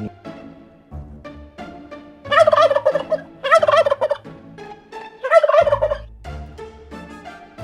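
Three loud, warbling animal calls, each under a second long, over soft background music.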